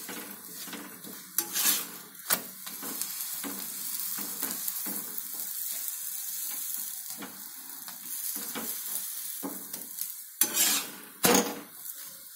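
Paratha frying in oil on an iron tawa, sizzling steadily, while a flat steel spatula presses it down and scrapes against the pan. A few sharper scrapes and knocks of the spatula stand out, the loudest about ten to eleven seconds in.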